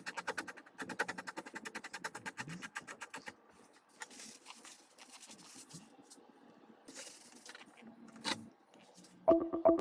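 Rapid, even mechanical clicking, roughly fifteen clicks a second, for about three seconds. Then faint scattered workshop knocks and one sharp click, and electronic music with a steady beat starts near the end.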